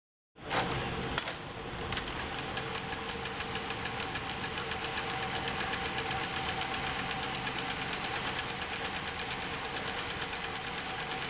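Sewing machine starting up and running, its needle mechanism clattering in a fast, even rhythm over a steady motor whine. There is one sharp click about a second in, and the rhythm settles by about two seconds in.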